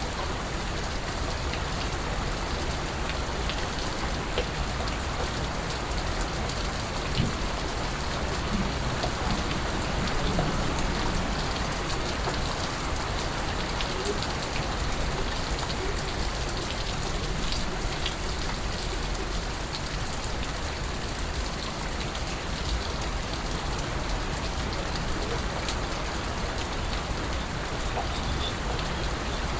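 Steady rain, an even hiss with many individual drops ticking sharply on a surface.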